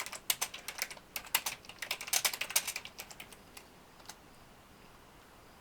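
Computer keyboard typing: a quick run of keystrokes for about three seconds, then a few lone key clicks before it stops.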